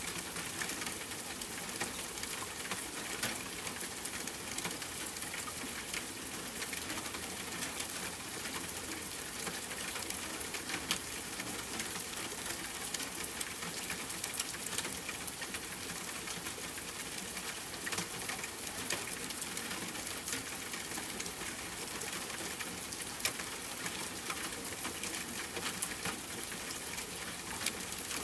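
Steady rain falling, a constant hiss with a dense patter of individual drops hitting a surface.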